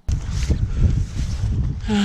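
Loud, irregular rumbling noise on the camera microphone during the uphill hike, starting abruptly, with a brief voice sound just before the end.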